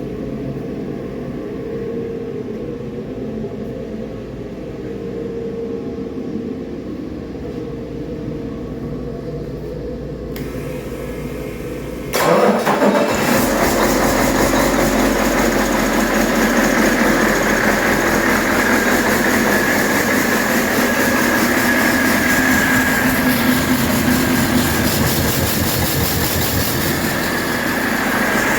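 A 2008 Cummins ISX inline-six diesel engine starting about twelve seconds in and then running steadily on a test run. Before it fires there is only a steady low hum.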